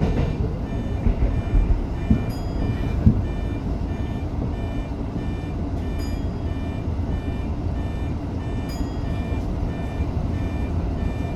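An electronic warning beep repeating about twice a second over the steady low rumble of a Tokyo Metro 05 series train running on the line.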